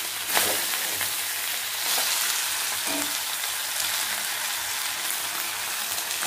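Beef frying in oil in a kadai, a steady sizzle, with a few short clicks as it is stirred.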